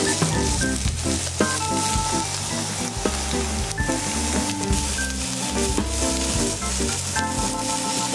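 Julienned carrot and onion sizzling in oil in a frying pan as they are stir-fried, over background music.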